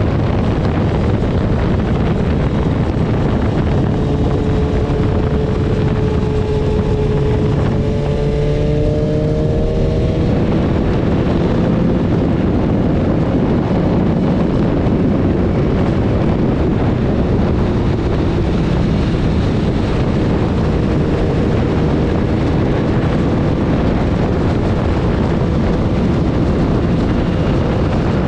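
Heavy wind rush on the microphone of a moving BMW S1000RR sport bike, with the inline-four engine's note faintly heard beneath it. The engine note shifts in pitch about eight seconds in.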